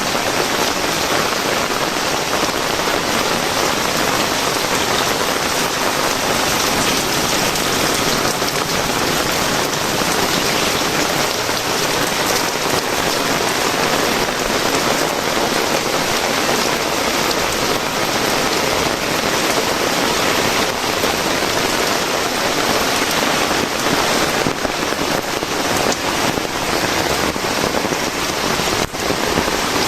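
Heavy rain falling steadily, a dense even hiss that holds at the same level throughout.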